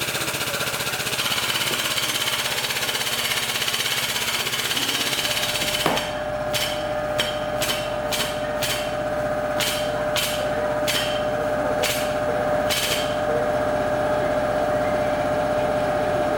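A power tool running steadily and loudly on car bodywork. From about six seconds a steady tone joins it, and sharp clicks come about twice a second until near the end.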